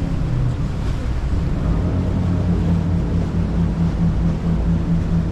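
Boat engine running steadily, a low drone over the wash of water. A steady hum in it grows stronger about halfway through.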